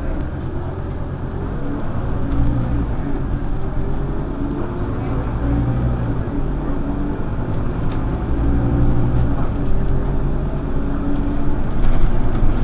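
Scania OmniCity bus's diesel engine under way, its note climbing and dropping back several times as the bus pulls and changes speed.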